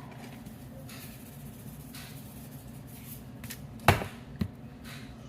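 A sharp knock about four seconds in, then a lighter one half a second later: a seasoning container being handled and set down on the counter while switching seasonings.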